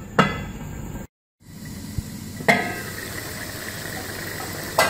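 A metal lid knocks onto an aluminium pot, and after a short break, chicken pieces and tomatoes fry in oil with a steady sizzle. Two sharp metal clinks come partway through and near the end.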